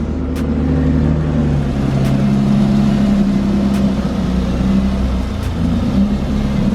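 Car engine running steadily at low revs, its pitch shifting slightly a few times.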